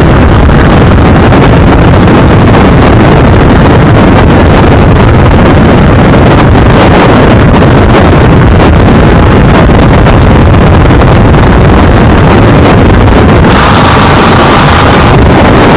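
Heavy wind buffeting the microphone of a moving vehicle, loud and constant over road and engine noise. About 13.5 s in, a steady pitched tone comes in for about a second and a half.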